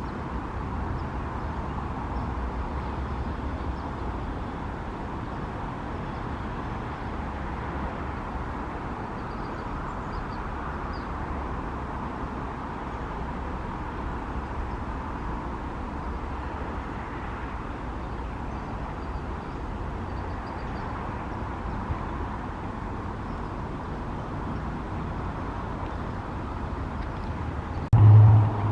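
Steady outdoor background hum of distant road traffic. Just before the end a loud, low, steady hum starts suddenly.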